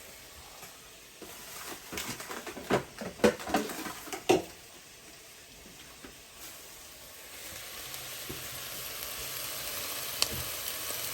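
Chicken with soy sauce frying and sizzling in a pan, with a cooking utensil knocking and scraping against the pan several times as it is stirred. The sizzling then grows louder, with one more sharp click near the end.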